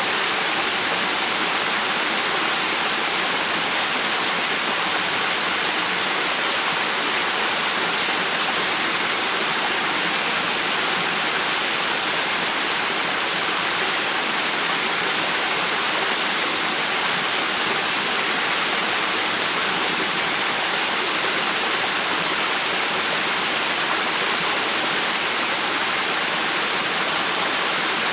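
River water flowing and rushing, a steady even splashing hiss.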